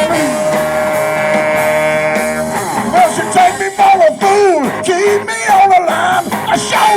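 Live rock band playing: a long held note for about the first two and a half seconds, then notes that bend and slide.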